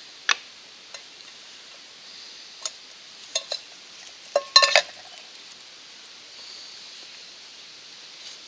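Metal camp cookware clinking and tapping as it is handled, a few scattered clicks and then a short cluster of ringing metallic knocks about halfway through, over a faint steady hiss.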